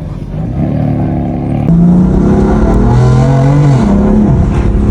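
Sports car engine accelerating hard. It gets suddenly louder under two seconds in, its pitch climbs, then falls away sharply near the end.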